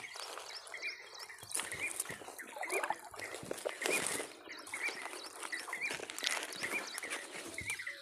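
Birds chirping, one short call repeating roughly once a second, over open-air background noise.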